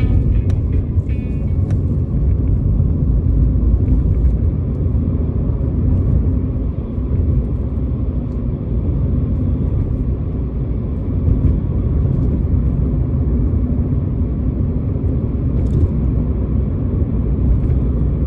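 Steady low rumble of a car driving, heard from inside the cabin, with music fading out in the first couple of seconds.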